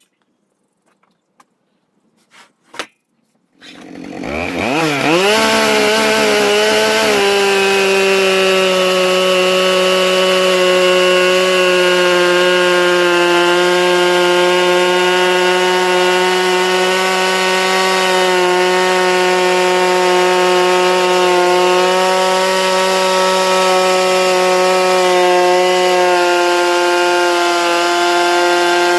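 Gasoline chainsaw on a Logosol log mill, ripping a cedar log lengthwise. After a few seconds of near silence with a couple of faint clicks, the saw revs up about four seconds in and then runs at steady full throttle through the cut.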